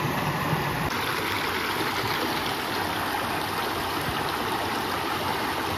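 Steady rushing of a flowing stream of water, an even wash of sound without breaks.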